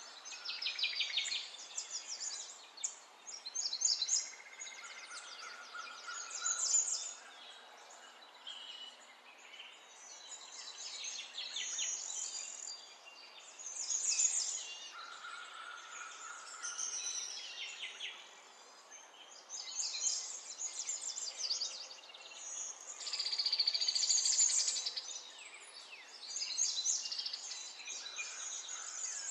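Several birds singing at once, a chorus of overlapping chirps and rapid trills over a faint steady hiss, with a few short level whistles among them.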